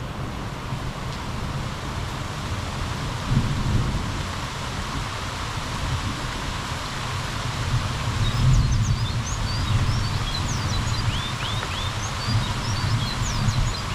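Steady summer rain falling, with a low rumble that swells and fades a few times. Over the second half, birds chirp in quick short notes, more often toward the end.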